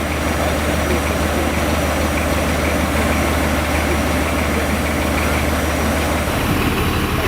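Heavy diesel engine of prototype HST power car 41001 idling steadily, a deep low drone that shifts in tone about six seconds in.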